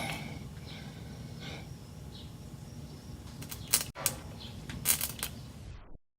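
Steady low hum with a few sharp clicks a little past the middle, cutting off abruptly near the end.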